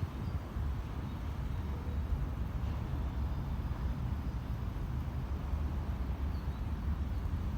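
Steady low outdoor rumble, uneven from moment to moment, with a couple of faint, brief bird chirps above it.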